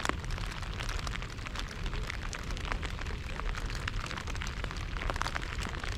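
Rain falling: many small, irregular taps of raindrops landing close by, over a steady low rumble.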